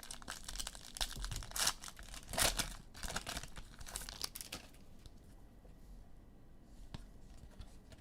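A foil trading-card pack being torn open, with the wrapper crinkling: a run of tearing and rustling for about the first four and a half seconds, then quieter handling with a few light clicks.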